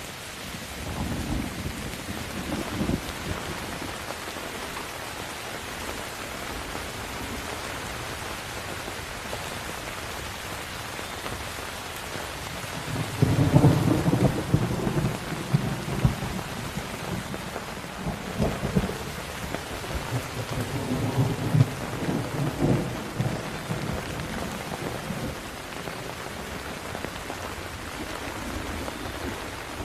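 Steady heavy rain with rolling thunder: a short low rumble in the first few seconds, then a longer, louder rumble rising about 13 seconds in and rolling on in waves for about ten seconds before fading back to the rain alone.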